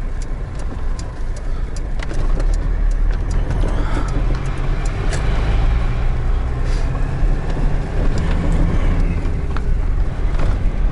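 GAZelle Next van driving at low speed: steady engine and road rumble, with scattered clicks and knocks throughout.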